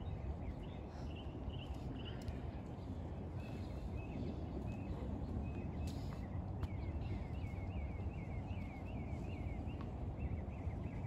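Small birds chirping: many short, high calls, coming thickest in a quick run a little past the middle, over a steady low outdoor rumble, with a few faint knocks.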